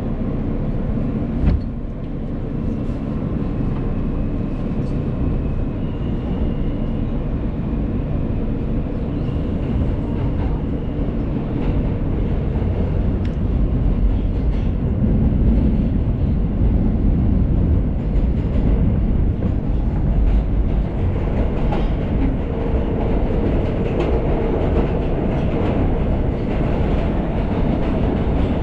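New York City subway F train heard from inside the car while running between stations: a steady low rumble of wheels on rails that grows louder over the first dozen seconds, with one sharp click about one and a half seconds in.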